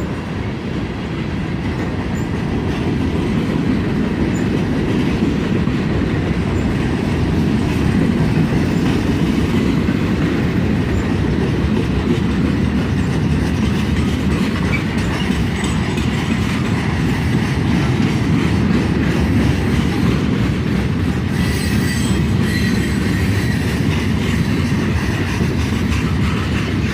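Freight cars of a long train rolling steadily past close by: a continuous heavy rumble with the rapid clatter of wheels over the rail. A faint high wheel squeal comes in briefly about three-quarters of the way through.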